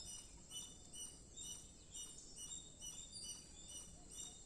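Faint chirping of several small birds: many short, high calls at different pitches, overlapping and repeating throughout.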